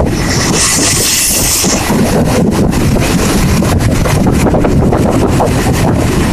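Freight train passing close by: a loud, steady rumble of wagons on the rails with rapid clicks from the wheels. A brief high hiss comes about half a second in and stops near two seconds.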